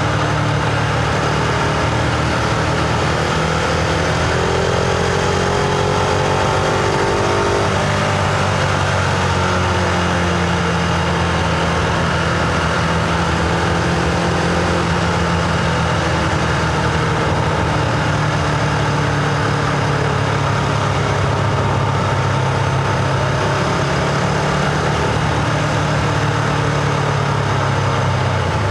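Husqvarna Vitpilen 701's single-cylinder engine and exhaust running under way, heard from the rider's seat. The engine note rises for a few seconds, drops suddenly about eight seconds in as it shifts up, then holds fairly steady at cruising speed.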